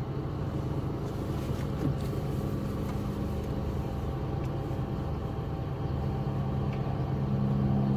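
2005 Honda Civic's engine idling steadily, heard from inside the cabin as a constant low hum.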